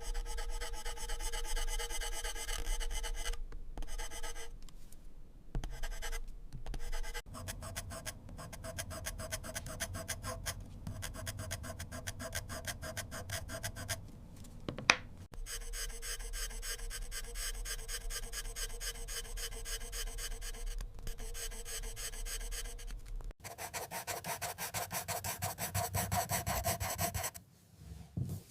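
Pencil scratching and rubbing on paper in rapid back-and-forth shading strokes, in several stretches with abrupt cuts between them.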